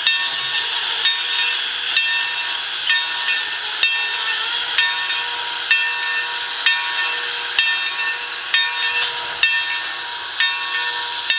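Steam train running: a steady hiss with several high, steady tones over it and faint regular clicks about once a second.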